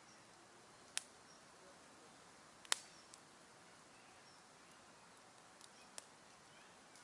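Campfire wood crackling: three sharp pops, about one, three and six seconds in, the middle one loudest, over a faint steady hiss.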